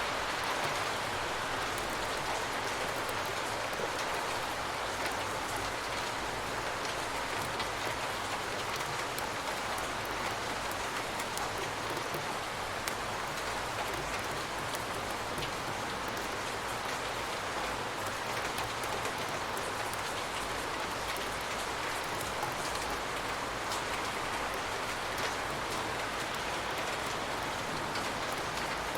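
Steady rain falling, a continuous hiss with many fine drop patters.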